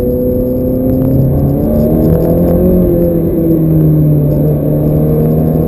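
Ferrari F430's V8 engine running under load, heard from inside the car; its pitch steps and dips through the middle and climbs again near the end.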